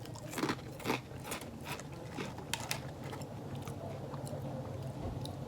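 A person biting and chewing a spicy cracker bite, crisp crunches in an uneven run that thins out after about three seconds.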